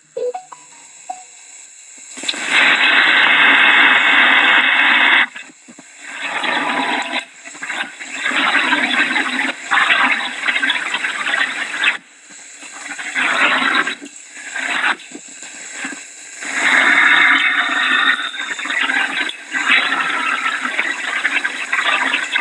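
Hurricane wind and driving rain rushing in surges, each gust lasting a few seconds, with short lulls between.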